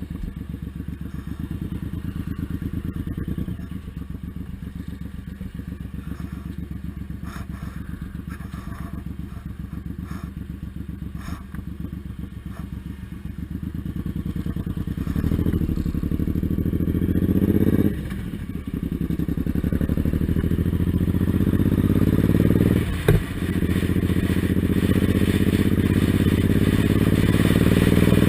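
Suzuki Intruder M1800R's big V-twin engine heard from on board while riding. It runs steadily at first, then gets louder and pulls up through the gears, the pitch rising and dropping back at two gear changes in the second half.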